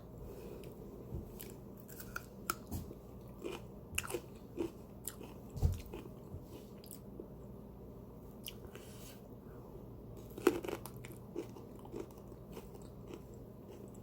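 A person chewing and biting cream-cheese-stuffed jalapeños coated in crushed Doritos Dinamita chips: irregular crunches and mouth clicks, a few of them louder, with a quieter stretch of softer chewing in the middle.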